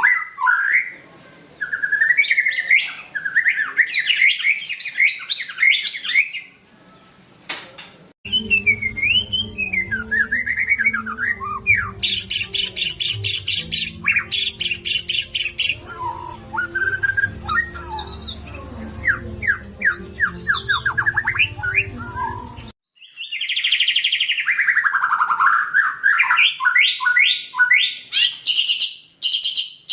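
White-rumped shama singing a loud, varied song: rapid whistled phrases that sweep up and down, with trills and runs of fast repeated notes. The recording changes abruptly about 8 seconds in and again near 23 seconds, with a low hum behind the song in the middle part.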